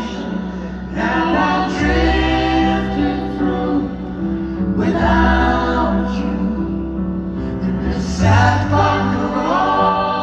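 Live band playing a slow ballad, with layered wordless vocal harmonies rising in swelling phrases over sustained low bass notes.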